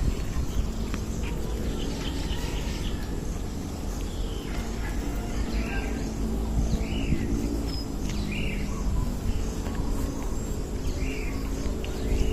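Birds calling outdoors: a short rising-and-falling call repeated about five times, a second or more apart, over a steady low background noise.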